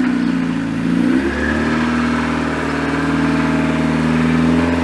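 Mazda Miata's four-cylinder engine running at low revs as the car is eased along at a crawl; its pitch dips and comes back up about a second in, then holds steady.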